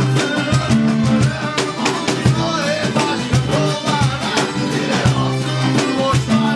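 Band music led by guitar, with bass and drums keeping a steady beat under a melody line that bends up and down.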